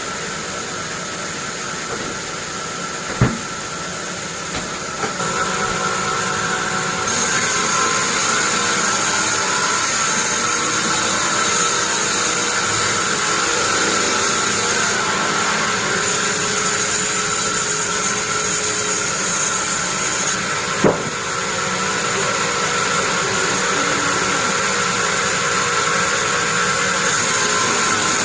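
Sawmill band saw running steadily with a constant whine. About seven seconds in, a loud high hiss sets in and carries on with a couple of brief dips. There are two sharp knocks, one early and one past the middle.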